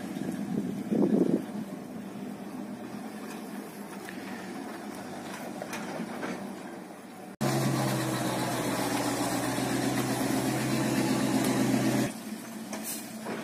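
Low outdoor noise, then after a cut about seven seconds in, a motor running with a steady hum. The hum stops about twelve seconds in.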